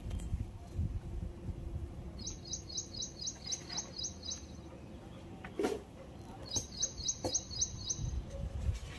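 A small bird calling in two runs of quick, high repeated chirps, about four a second, over a low rumble, with a couple of light knocks in between.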